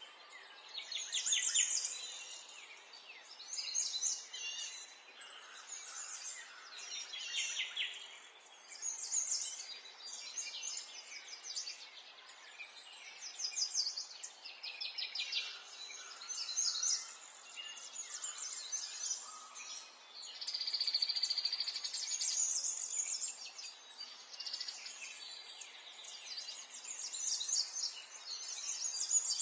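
Several birds calling and singing in quick bursts of fast chirps, one after another every second or two, over a faint steady background hiss.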